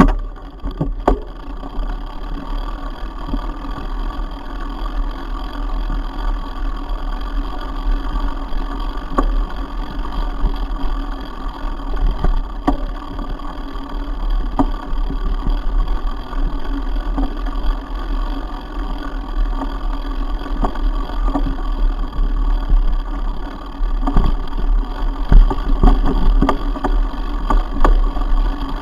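Mountain bike rolling over a rough trail: a continuous rumble and rattle with scattered sharp knocks, and wind buffeting the microphone.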